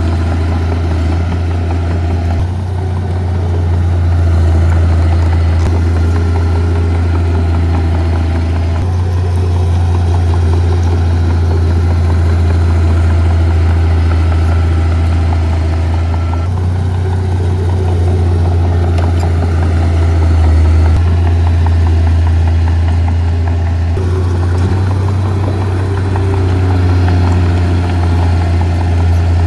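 Heavy earthmoving machinery's diesel engine running steadily at a low, even pitch, with small shifts in its sound every several seconds.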